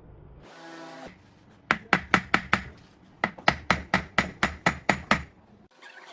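Rapid knocking strikes in two runs, about five and then about nine at roughly four a second, like a tool being struck repeatedly during restoration work. A brief pitched buzz comes before them, about half a second in.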